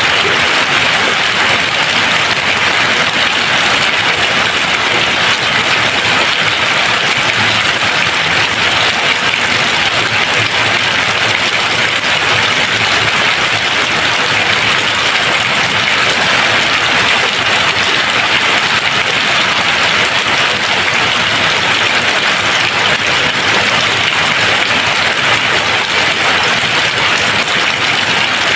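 Steady rain falling without thunder, an even, unbroken hiss.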